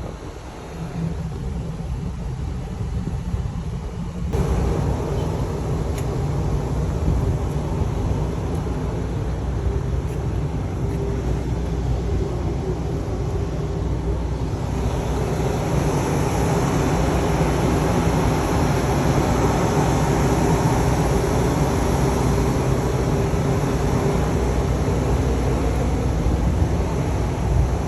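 Car running and driving, a steady engine hum with road noise. It gets louder about four seconds in and brighter and noisier again around fifteen seconds in, as if picking up speed.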